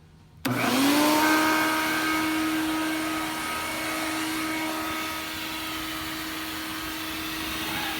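Shop vac switched on about half a second in, its motor whine rising quickly to a steady pitch and running on. It is set to blow, pushing air into a truck's exhaust pipe to find an exhaust manifold leak.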